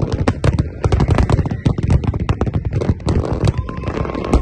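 Aerial fireworks going off in a dense barrage: many rapid overlapping bangs and crackles, several a second, over a continuous low rumble.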